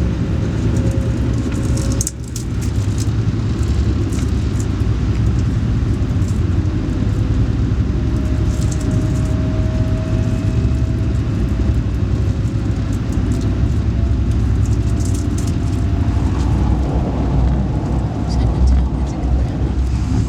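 Alfa Pendular (Pendolino) tilting train running, a steady low rumble with a faint tone slowly rising in pitch partway through and scattered light clicks.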